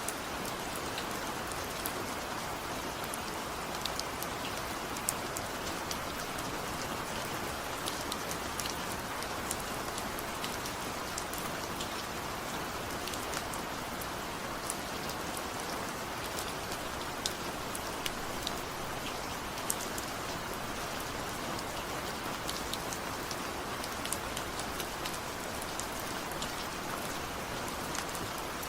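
Steady rain falling, a constant hiss with many small individual drop ticks scattered through it.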